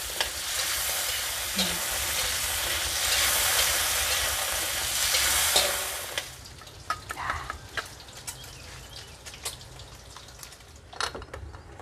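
Chilies, shallots and garlic sizzling in hot oil in a wok while a metal spatula stirs them. The sizzling stops about six seconds in, and after that there are only scattered light clicks and taps.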